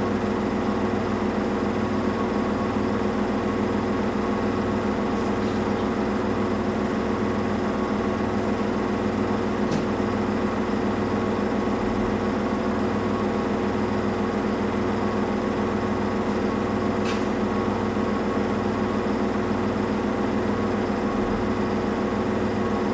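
Samsung Eco Bubble washing machine running mid-cycle: a steady motor hum with a low pulse about once a second, and a couple of faint ticks.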